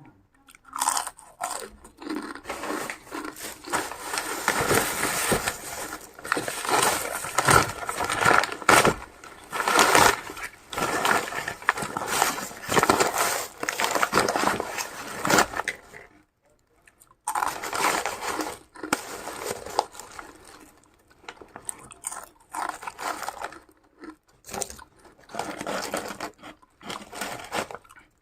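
Close-up chewing and biting of crunchy food: dense, crackly crunches in uneven bursts, with a brief pause a little past halfway.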